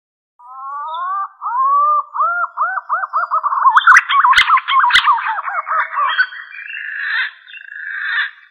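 Green pigeon (punai) song: slow sliding whistles around 1 kHz that quicken into a fast, warbling series of looping notes, then turn into a rougher, grating stretch in the last few seconds. Two sharp clicks come about four and five seconds in.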